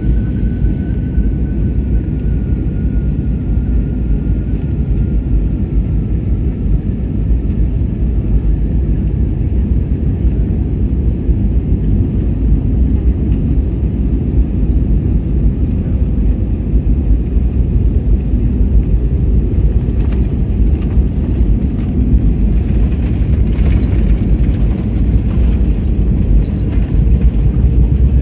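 Cabin noise inside an Airbus A321neo during landing: a steady, loud low rumble of engines and airflow. About twenty seconds in it grows rougher and hissier.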